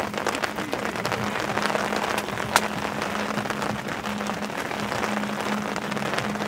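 Light rain pattering, with many small drops ticking close by and one sharper tick about two and a half seconds in.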